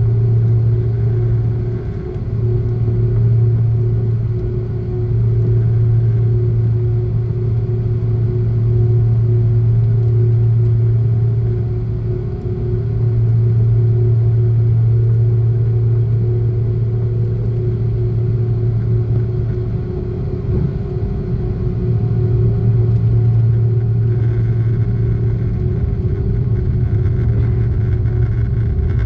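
Airbus A330-323 cabin noise heard from a window seat: the jet engines run with a steady, loud low hum and a constant higher tone over a rushing airflow noise.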